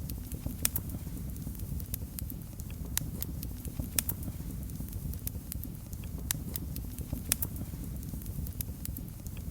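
Wood fire in a fireplace crackling: irregular sharp pops and snaps, a few of them louder, over a steady low rumble of the flames.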